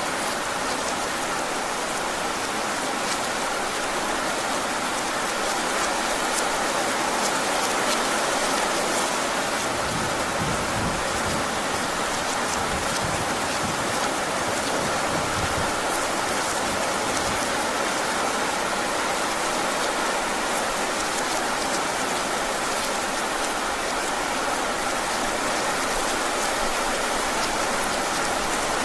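Heavy rain falling steadily, with scattered individual drop hits. A low rumble comes in underneath for several seconds around the middle.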